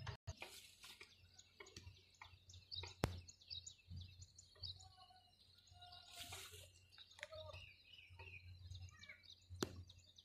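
Faint outdoor ambience with scattered short bird chirps and calls, over a low rumble on the microphone. A sharp click about three seconds in and another near the end.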